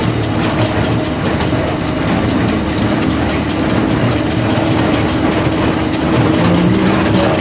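Farm machinery running steadily, a heavy engine with a constant hum and a light rhythmic clatter.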